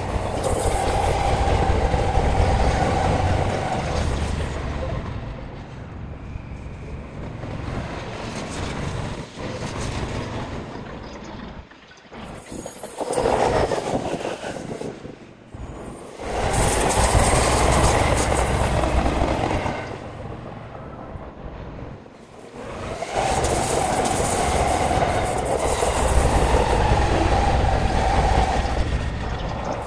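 Electric trains running on the rails with some clickety-clack, swelling and fading as train after train passes, with a few abrupt drops in between.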